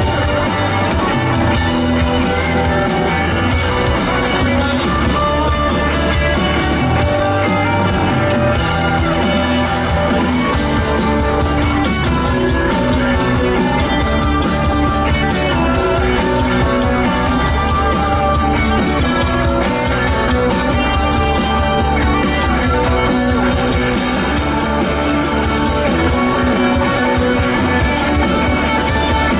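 Live rock band playing at full volume: distorted electric guitars, bass and drum kit in a steady, continuous wall of sound.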